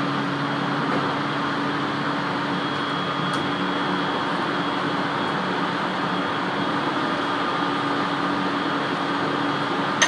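Running noise of an Aoimori Railway 701-series electric train heard from inside the car: a steady rumble of wheels on rail with a constant hum. A single sharp click near the end.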